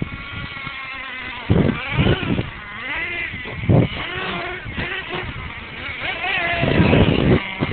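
Small two-stroke engine of an R/C monster truck revving up and down as the truck drives, its pitch rising and falling. A few loud low rumbling bursts come through, about one and a half seconds in, near four seconds and near the end.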